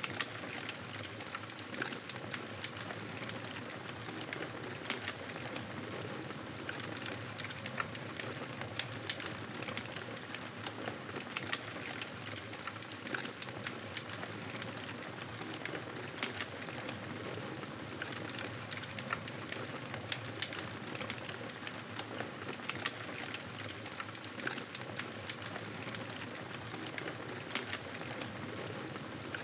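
Campfire burning, with a steady hiss and frequent small crackles and pops from the wood.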